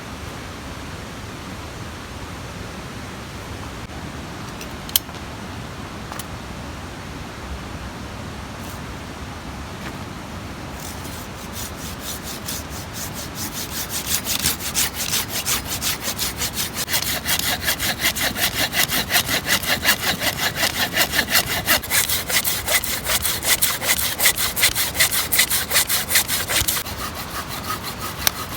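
Hand saw cutting wood in quick, regular back-and-forth strokes. The sawing starts about ten seconds in, grows louder and stops shortly before the end, over a steady rushing background noise.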